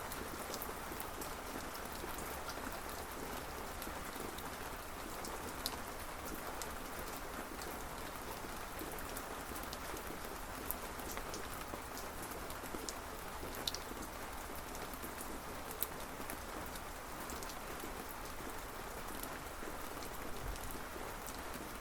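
Steady rainfall, a continuous hiss with scattered sharp drip ticks.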